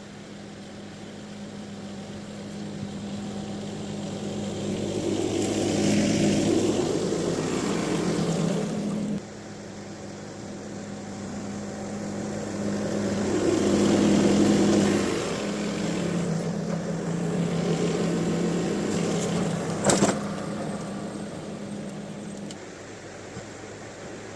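Tractor engine running steadily while cultivating a rice field, growing louder and then falling back twice. A sharp knock comes about twenty seconds in.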